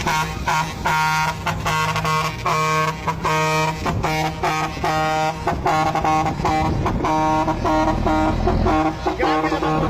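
A truck's multi-tone musical air horn playing a tune of short notes at changing pitches, over the steady hum of the running engine.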